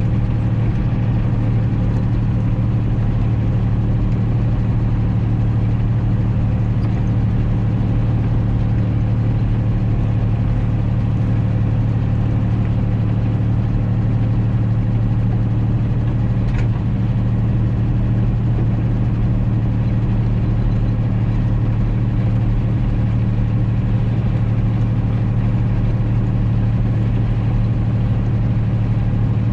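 John Deere 3140 tractor's diesel engine running at a steady speed, a constant low hum with no revving.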